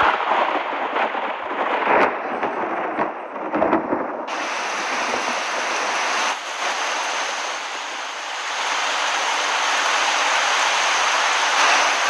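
Heavy storm rain with wind, a loud steady rushing hiss with a few sharp hits in the first four seconds; from about four seconds in the hiss suddenly turns brighter and fuller.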